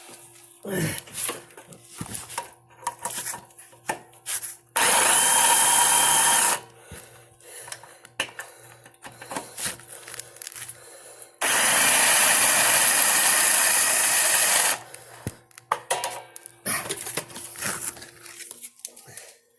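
A handheld power tool run in two bursts, about two and three seconds long, working a nut loose on the mini bike's engine mount, with small clicks and knocks of handling between the bursts.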